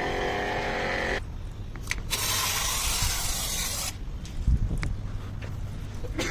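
Air-conditioner jet service: a pump motor runs with a steady hum while a water jet hisses, and the hum stops about a second in. A second burst of spray hiss follows for about two seconds, then low knocks and clicks.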